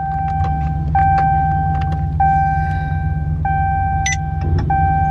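Idling engine of a Dodge Charger Scat Pack with its 392 HEMI V8, a steady low rumble, under a repeating electronic warning chime: one steady tone held about a second and restarting every second and a quarter. Faint scattered clicks run alongside.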